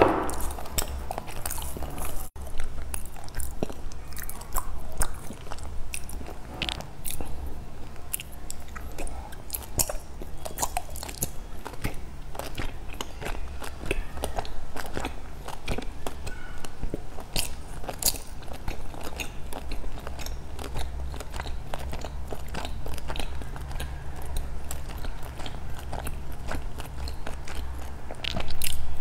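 Close-miked biting and chewing of a translucent, jelly-like layered cake, full of sharp crackling clicks and wet mouth sounds, over a low steady hum. There is a louder patch of plastic-wrap rustling at the start as the cake is unwrapped.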